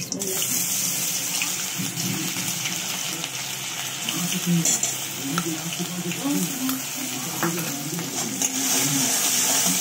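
Ginger-garlic paste sizzling as it is dropped into hot oil in a steel wok, a steady hiss that starts the moment the first spoonful goes in, with a few light taps of spoon and spatula on the pan.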